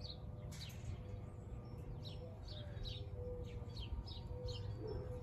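A small bird chirping repeatedly: short, high, falling chirps about two a second. Under it, a faint steady hum and low outdoor rumble.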